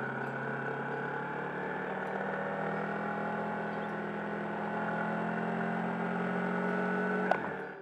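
Kawasaki Versys motorcycle engine running at steady revs, with an even hum, cutting off with a click near the end.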